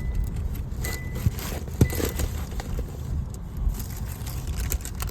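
Handling noise: paper crinkling and a few sharp clicks over a steady low rumble.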